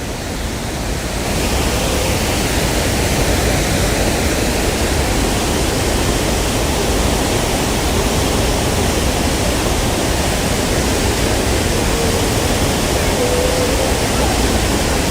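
Steady rush of a waterfall's heavy flow of water, growing a little louder over the first second or so and then holding even.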